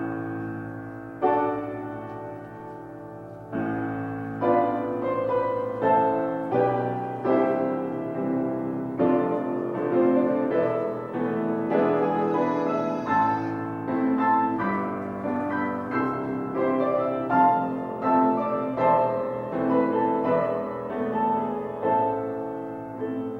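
Solo piano music: chords and melody notes struck at an unhurried pace, each ringing and fading.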